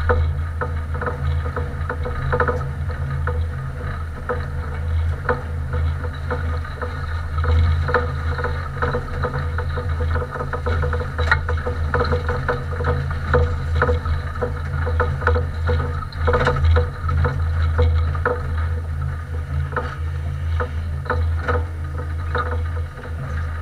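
Compact race car's engine idling with a steady low hum, heard from inside the stripped cockpit, with light rattles and clicks from the car's body.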